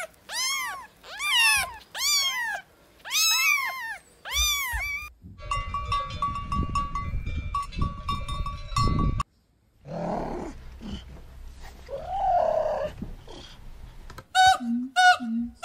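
Kittens mewing: about five high, arching mews in the first five seconds. A different stretch follows with steady ringing tones over low noise, then after a brief gap a lion cub's lower calls.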